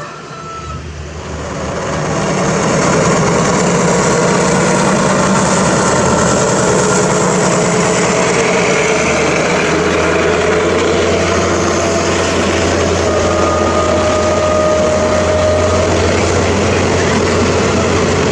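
A train passing close by: the rumble of its wheels on the rails builds over the first two seconds or so, then holds loud and steady.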